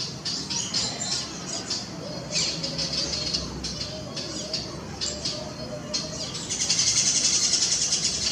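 Birds chirping and calling in short, high notes, breaking into a loud, rapid chatter for the last second and a half or so.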